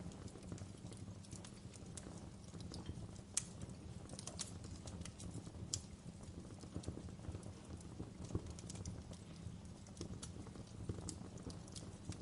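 Wood fire crackling in a fireplace: irregular sharp pops and snaps, a few louder ones among them, over a steady low rumble of the flames.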